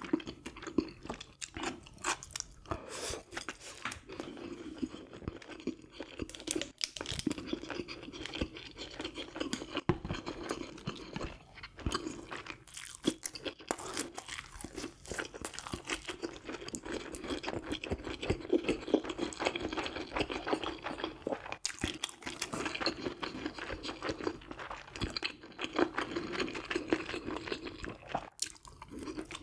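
A person eating close to the microphone: chewing and crunching food, with many short, sharp clicks and smacks.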